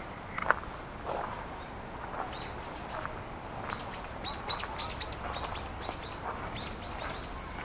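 A bird calling a rapid run of high chirps, starting about two and a half seconds in and ending with one longer drawn-out note. Footsteps crunch on a gravel path, the sharpest step about half a second in.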